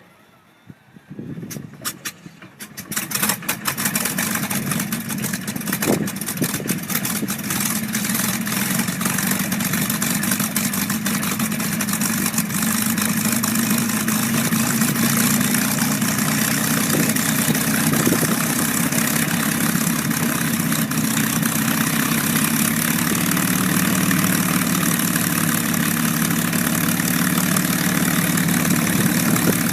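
P-51B Mustang's Packard Merlin V-12 aero engine starting: it turns over with irregular coughs and pops for a couple of seconds, catches about four seconds in, and then runs at a steady idle.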